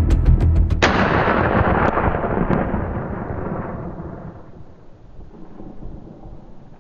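Rhythmic background music cuts to a sudden deep boom about a second in, which rumbles and fades away over about four seconds like thunder.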